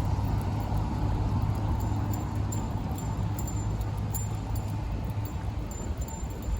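A motor vehicle's engine running with a low, steady hum that fades about five seconds in, with light metallic clinks scattered throughout.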